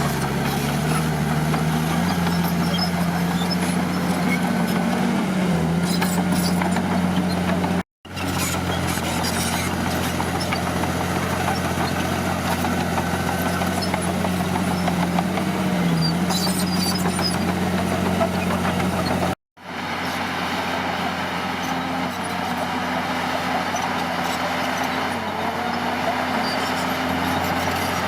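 Bulldozer's diesel engine running steadily at working speed, its pitch dipping slightly now and then under load. The sound cuts out abruptly twice, for a split second each time.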